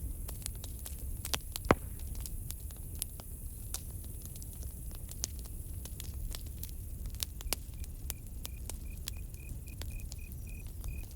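Campfire crackling with scattered sharp snaps and one louder pop a couple of seconds in. About two-thirds of the way through, a cricket starts chirping, a high pulsed call repeating about three times a second.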